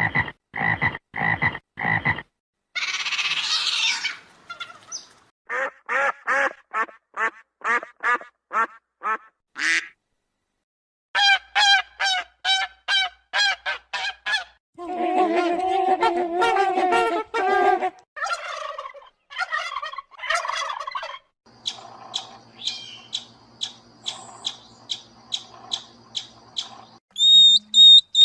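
A string of short animal sound-effect clips played one after another, mostly bird calls repeated several times each, including goose-like honking. One brief hissing patch comes a few seconds in, and a run of rapid clicks comes near the end.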